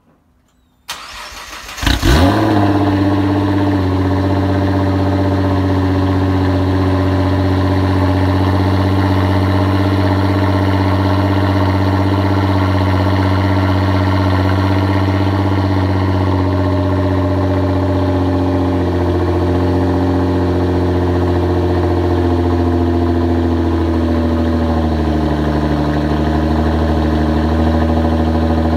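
Nissan GT-R R35's twin-turbo 3.8-litre V6 cold-starting through an Armytrix aftermarket exhaust: a brief crank, a sharp rev flare as it catches about two seconds in, then a steady high cold idle that settles slightly lower in pitch near the end.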